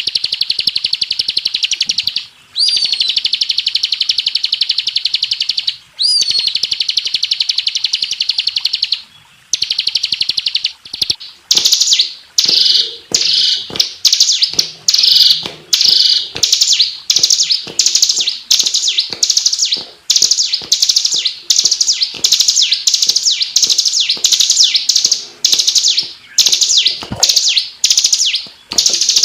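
Bar-winged prinia (ciblek) song. First comes a long, rapid, high trill, broken by a few brief pauses. From about ten seconds in it turns to a fast run of short, sharp, falling chirps.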